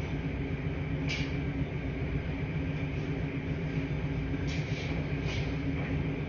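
Washing machines running with a steady low hum, and four brief swishes over it, about a second in and three close together near the end.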